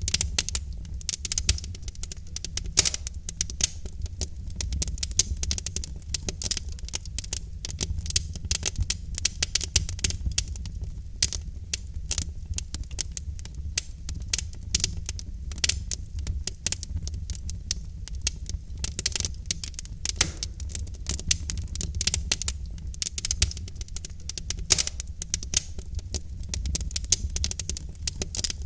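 Wood fire of burning logs in a fireplace, crackling with rapid irregular pops and snaps over a steady low rumble of the flames.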